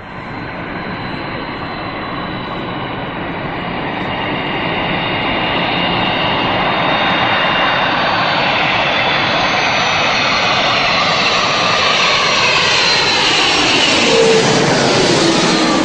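Aircraft engines roaring as a plane comes in low and close. The noise grows louder over several seconds, and the engine whine drops in pitch as it passes near the end.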